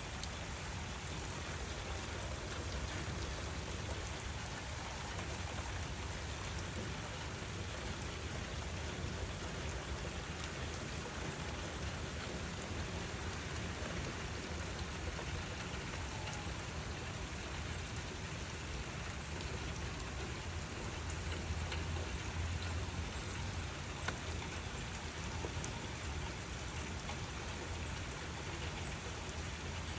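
Steady rainfall: an even hiss with scattered fine drop ticks and a low rumble underneath that swells slightly a little past the middle.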